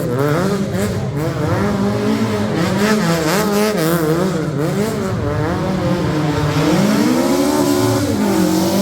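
Rally car engine revving up and down in quick swings as the car is thrown through a slalom, with a longer climb in revs about six and a half seconds in.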